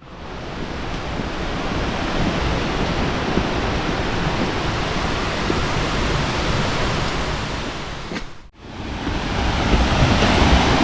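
Fukuroda Falls' water rushing in a steady, dense wash of noise. It cuts out briefly about eight and a half seconds in and fades back up, louder.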